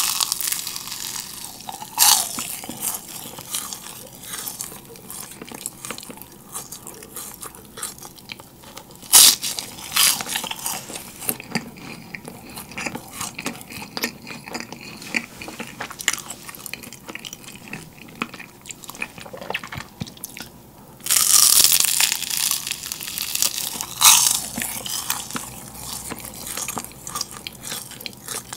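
Close-miked crunching of yugwa, Korean fried glutinous-rice crackers coated in puffed rice: sharp crisp bites followed by crackly chewing, with a long, loud run of crunching about two-thirds of the way through.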